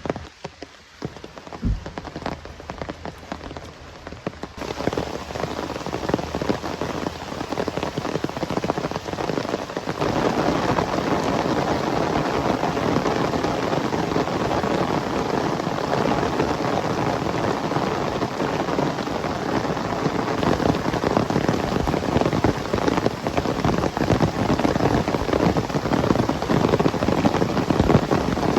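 Rain falling: a sparse patter of drops at first, with a single low thump about two seconds in. The rain thickens within a few seconds and becomes a steady heavy downpour from about ten seconds in.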